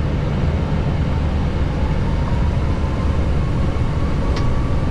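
Airbus A321neo cockpit noise under engine power: a steady low rumble of engines and airflow, with a faint whine rising slowly in pitch through the second half and a single short click about four and a half seconds in.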